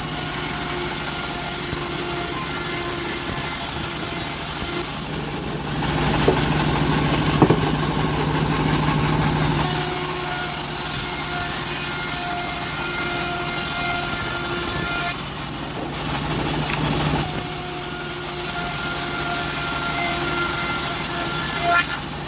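Homemade band sawmill running steadily, its blade sawing through a teak log, the machine's pitch and level shifting a little as the cut goes on.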